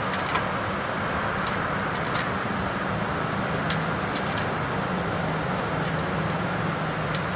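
Boat engine droning steadily under a constant wash of noise, with a few light clicks scattered through.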